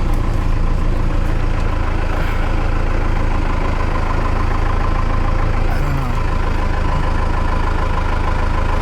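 Cummins 4BT four-cylinder diesel engine in a Ford F-150 running steadily at low speed.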